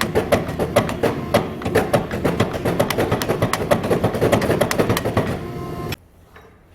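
Hammer blows on hot steel during forging, a fast even rhythm of about five or six strikes a second with a metallic ring, stopping abruptly about six seconds in.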